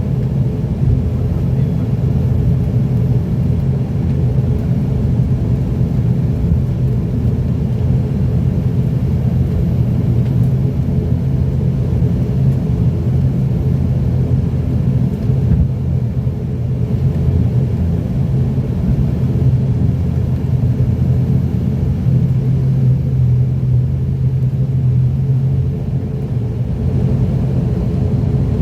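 Steady low drone of an ATR 42-600's twin turboprop engines and propellers, heard from inside the passenger cabin at an even power setting while the aircraft is on the ground before take-off.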